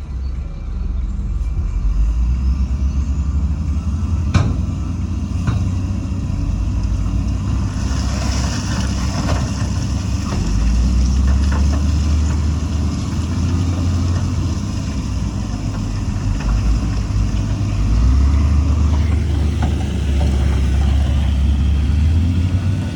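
Heavy diesel earthmoving machinery running, the engine note rising and falling as it works. A sharp knock comes about four seconds in, and a hiss about eight seconds in.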